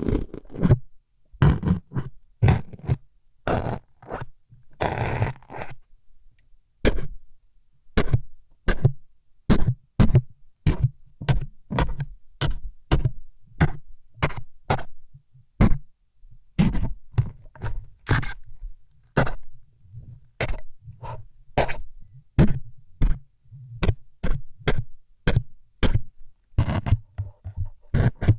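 Close-miked ASMR needle-stabbing sounds: a steady run of short, sharp stabbing and scraping strokes, about one or two a second, with a few longer scrapes in the first several seconds.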